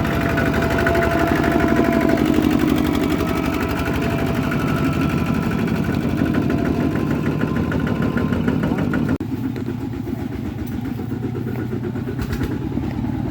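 Kubota tractor's diesel engine running steadily with rapid even firing pulses. The sound changes abruptly and drops a little in level about nine seconds in.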